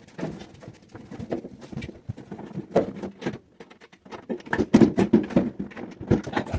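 Microwave parts being handled during disassembly: irregular clicks, scrapes and rattles of metal and plastic pieces, busiest and loudest a little past the middle.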